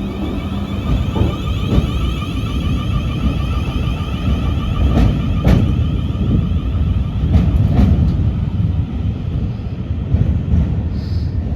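South Western Railway Class 444 electric multiple unit pulling out of the station, with a steady rumble and a wavering electric whine from its traction equipment. Its wheels click over rail joints in pairs, three times.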